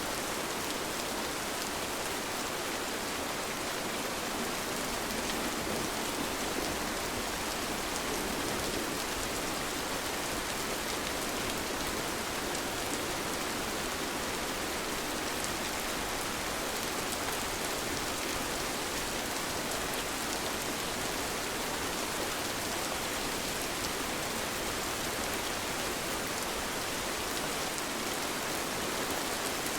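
Steady rain falling, an even hiss with fine scattered drop patter throughout.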